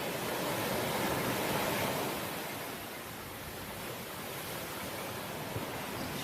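Ocean waves washing onto the shore, a steady rush of surf that swells over the first couple of seconds and then eases off.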